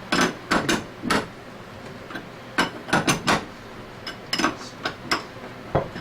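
A bearing puller on an Anest Iwata scroll compressor being turned by hand, giving sharp metallic clicks and knocks in short clusters every second or so. The bearings are tight and come out only a thread at a time under heavy effort.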